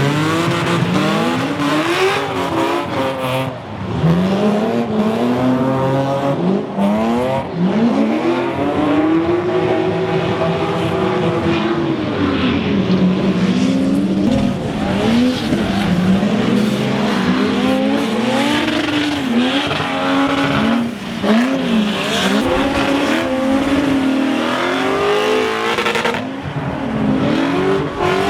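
Drift car engines revving hard and falling back, over and over, as the throttle is worked through a drift; the pitch sweeps up and down repeatedly throughout.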